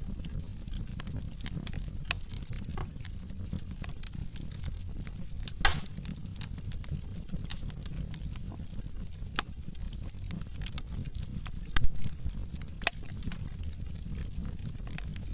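Wood fire burning in a fireplace: a steady low rumble of flames with scattered sharp crackles and pops from the logs, two louder pops, one about six seconds in and one about twelve seconds in.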